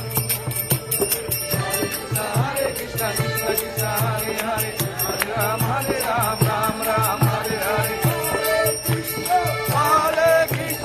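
Devotional chant music: a drum and jingling percussion keep a steady beat, and a singing voice comes in about two seconds in, gliding through the melody.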